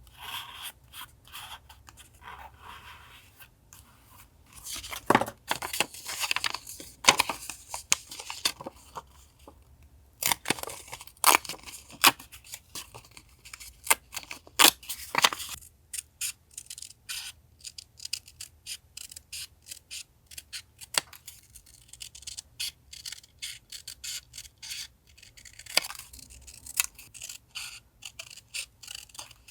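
Scissors cutting paper: a run of crisp snips, irregularly spaced, with paper rustling between them.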